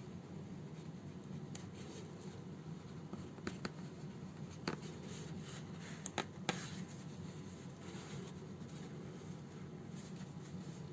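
Hand sewing of a fabric house slipper: needle and thread drawn through the cloth with soft scratching and rustling, and a few sharp clicks around the middle, over a steady low hum.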